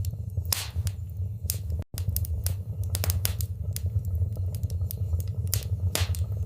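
Wood fire crackling in a fireplace: irregular sharp pops and snaps over a steady low rumble. The sound cuts out for an instant about two seconds in.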